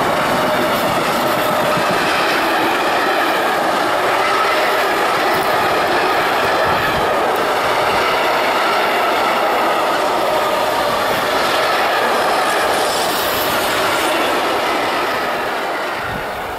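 Empty container flat wagons of an intermodal freight train rolling past at close range: a loud, steady rumble of steel wheels on rail with a ringing whine over it. The sound dies away near the end.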